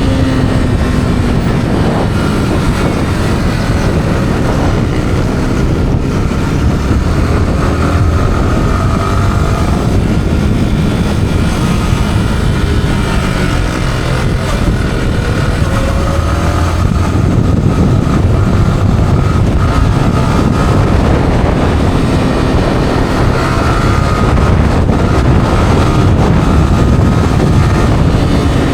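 Yamaha R15's single-cylinder engine running through its stock exhaust while riding, its pitch slowly rising and falling with the throttle, under heavy wind rush on the microphone.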